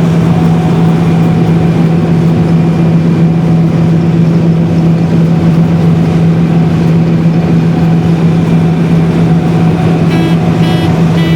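John Deere 9660STS combine running steadily with a constant low hum. Three short high beeps come near the end.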